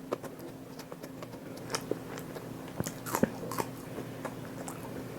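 A person eating close to the microphone: chewing and biting, with irregular mouth clicks and smacks, the sharpest about three seconds in, over a steady low hum.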